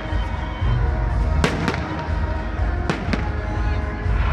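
Fireworks salute bursting overhead: two pairs of sharp bangs, about a second and a half in and again about three seconds in, over a continuous low rumble.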